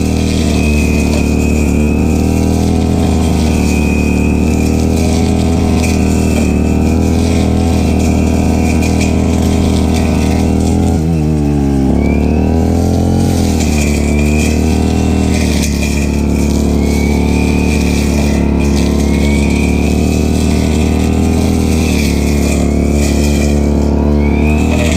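Stihl FR3001 backpack brush cutter's two-stroke engine running at high throttle while cutting grass. About eleven seconds in the revs drop briefly and climb back up.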